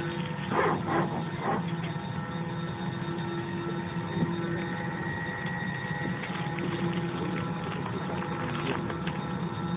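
Steady drone of an airliner cabin on the ground before departure: air-conditioning and engine hum with several fixed tones running through it.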